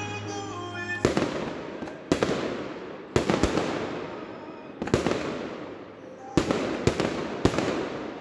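Aerial fireworks going off: a string of sharp bangs, mostly about a second apart with a few closer together, each trailing off after the hit.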